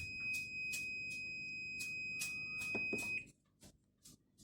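Automatic washing machine's electronic error alarm signalling its F8 fault: a steady high-pitched beep tone with short pulses about three a second. It cuts off suddenly about three seconds in.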